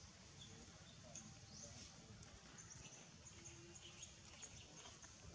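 Quiet background with scattered faint, short, high chirps of small birds.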